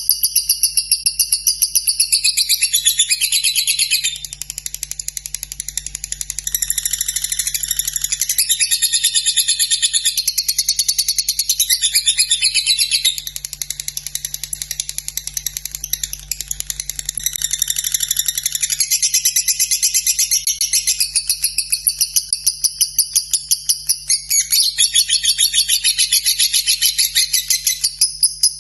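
Lovebird singing a long, unbroken, high-pitched chattering song over a rapid, even ticking. The song swells and drops back several times, with a faint steady hum beneath.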